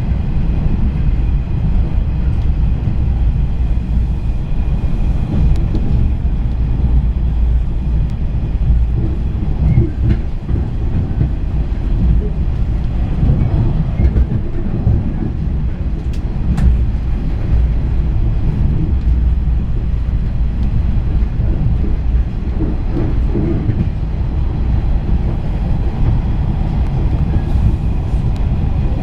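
Running noise of a JR East 485 series electric limited-express train heard from inside the carriage: a steady rumble of wheels on rail at speed, with a faint click or two.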